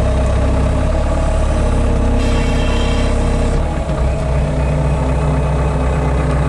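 Engine of a piece of heavy machinery running steadily. A higher whine joins about two seconds in for a second and a half, and the engine note changes about halfway through.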